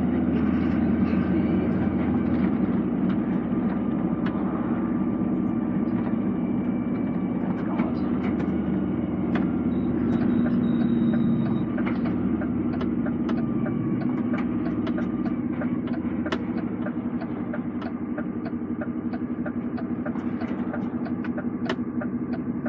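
Lorry engine and road noise heard from inside the cab while driving: a steady low drone with scattered small clicks and rattles.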